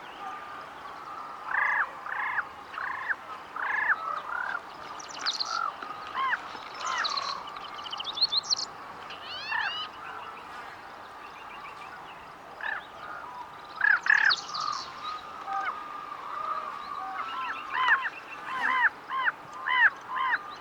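Several birds calling: series of short, arched calls, several a second, in clusters near the start, around the middle and near the end, mixed with higher, thinner chirps.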